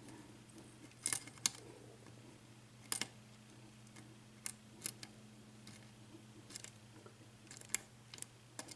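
Faint, irregular metallic clicks of a lock pick lifting the pins of an Assa six-pin oval cylinder lock, its plug held in a false set under tension.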